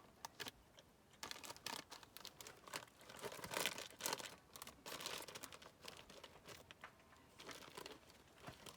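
Faint crinkling and rustling of food packaging, handled in irregular crackles that are busiest in the first half.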